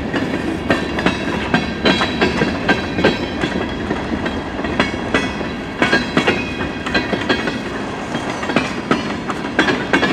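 Mixed freight train cars rolling past at close range: a steady rumble of steel wheels on rail with many irregular clicks and clacks as the wheels pass.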